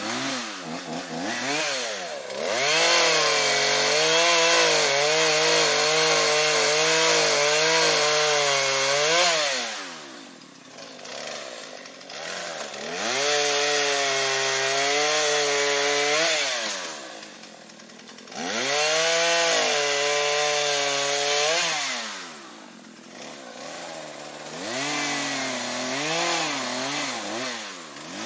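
Two-stroke chainsaw cutting wood: it revs up to full throttle four times and holds there through each cut, dropping back to idle in between.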